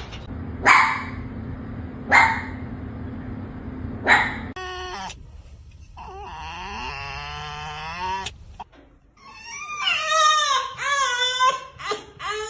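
Pet fox vocalizing: three short harsh bursts, then a long wavering whine, then a run of high, rising and falling whining yelps near the end.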